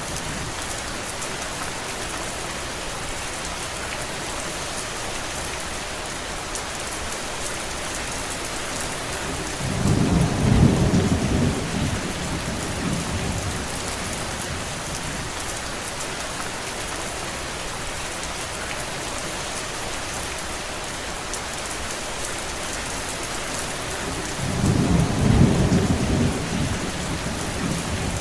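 Steady rain falling, an even hiss with no letup. Two deep rumbles swell and fade over it, one about ten seconds in and another near the end.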